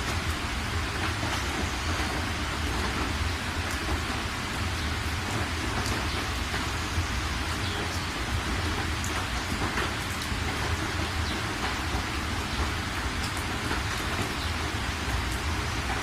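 Steady heavy rain, a dense even hiss with scattered sharper drop ticks and a constant low rumble underneath.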